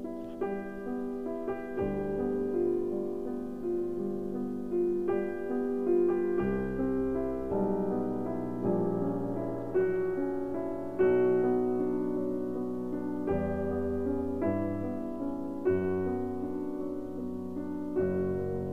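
Slow piano music: single notes and chords struck about once a second and left to ring over changing bass notes.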